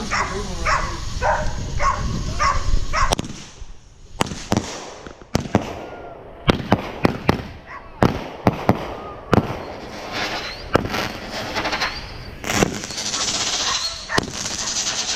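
A dog barking repeatedly for the first few seconds, then fireworks going off: many sharp cracks and pops, with a stretch of hissing near the end.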